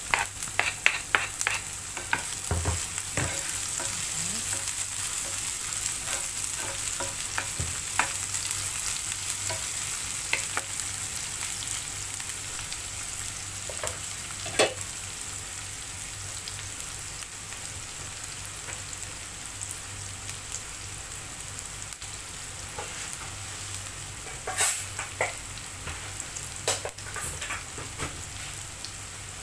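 Chopped red onion and garlic sizzling in hot oil in a nonstick frying pan, the sizzle easing slightly as it goes. There are scattered knocks of a wooden spatula, thickest in the first few seconds and again near the end.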